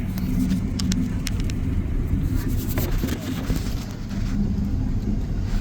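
Cabin noise inside a Boeing 777-200 on the ground with its engines running: a steady low rumble and drone, with a few light clicks and rattles about a second in.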